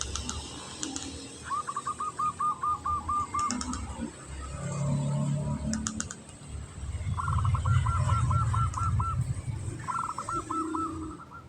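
Zebra dove (perkutut) singing: three runs of quick, evenly spaced staccato notes, with deeper low sounds in between and a few sharp clicks.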